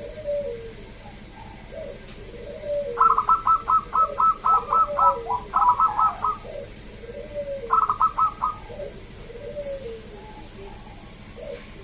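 Zebra doves (perkutut) singing: a rapid run of sharp, high cooing notes that lasts about three seconds, and a shorter run about a second later, over softer, lower coos repeating about once a second.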